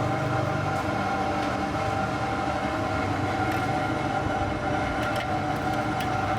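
A machine running steadily with a constant hum made of several steady tones, and a few faint clicks.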